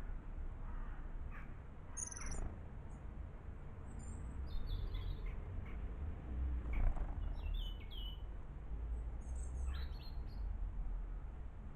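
Small garden birds chirping and twittering in short, scattered calls over a steady low rumble, with a louder dull knock about seven seconds in.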